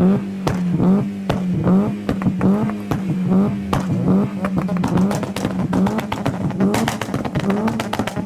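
Modified car engine revved hard in quick repeated blips, about two a second, each rising and holding high, with sharp exhaust pops and bangs crackling over it.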